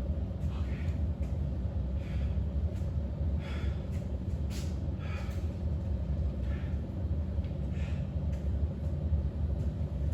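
A man breathing hard during step-ups, with short exhales every second or so, over a steady low rumble.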